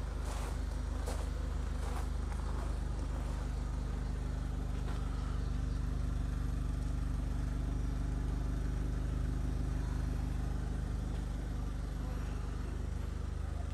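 Mitsubishi Eclipse GS-T's turbocharged 2.0-litre 16-valve four-cylinder idling steadily, heard from behind at its twin-tip exhaust.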